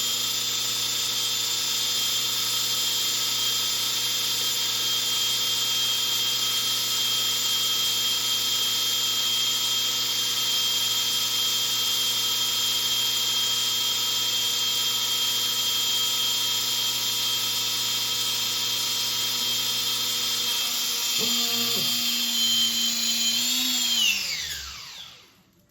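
Align 450L electric RC helicopter's motor and rotor running at a steady speed with a high-pitched whine. About 24 s in the throttle is cut and it spools down, the pitch falling until it stops.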